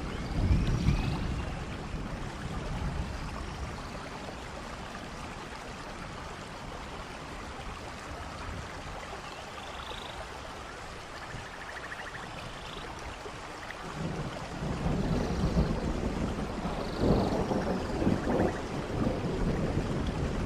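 Rain falling beside a waterfall: a steady hiss of falling and running water, with louder, deep rumbling swells about a second in and again through the second half.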